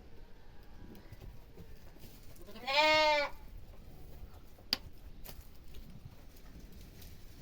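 One loud bleat from a small farm animal, lasting under a second, about three seconds in. A sharp click follows a moment later.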